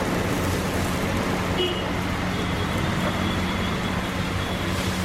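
Steady roadside traffic noise with a constant low hum underneath.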